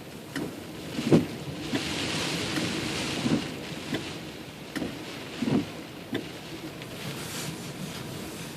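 Storm wind and rain, with a steady hiss that swells for a second or two about two seconds in. Irregular low thumps of gusts buffet through it every second or so.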